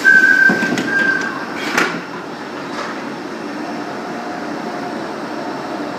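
Frecciabianca passenger train pulling out of the station, with a steady running noise. The start is loudest, with a high steady tone for just over a second and a few sharp clacks during the first three seconds.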